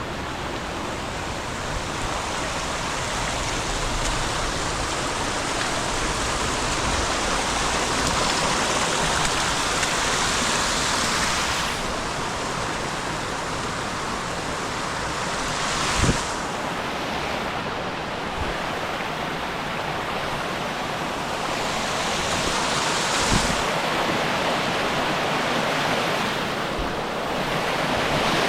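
Rushing whitewater of the Nantahala River around the kayak, a steady hiss that swells and eases. A sharp knock comes a little past halfway and a smaller one later.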